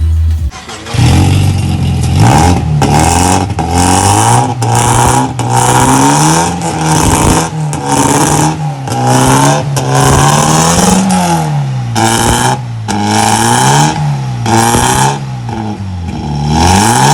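Car engine with a newly fitted aftermarket exhaust being revved in repeated blips, about a dozen times, its pitch climbing and dropping with each rev.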